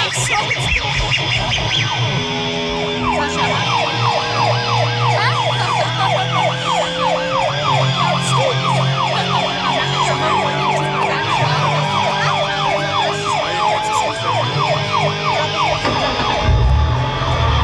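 A fast, repeating siren-like whoop, rising sweeps a few times a second, over music with held synth tones and heavy bass. The bass swells near the end.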